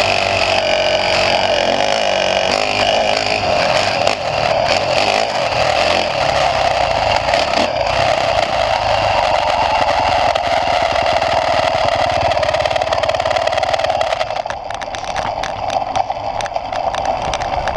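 Motocross dirt bike engine running and revving under riding, heard close up with wind and rattle noise. About fourteen seconds in it eases off and gets quieter, leaving a string of clattering knocks.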